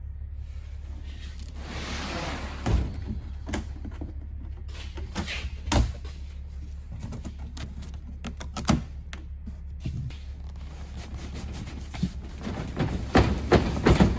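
A cardboard shipping box of exhaust pipe being opened and unpacked: rustling of cardboard and scattered knocks and thuds, busier near the end, over a steady low hum.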